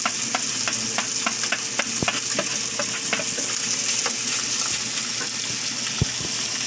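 Diced carrots, button mushrooms and ham sizzling in a non-stick pan as they are sautéed, with frequent light clicks and scrapes of a wooden spatula stirring them. A sharper knock comes about six seconds in.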